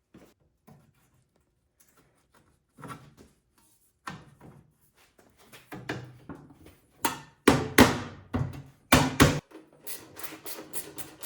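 A sheet-metal belly pan being fitted back under a snowblower: scattered light knocks, then several loud clanks about two-thirds of the way in, followed by a quick run of clicks near the end.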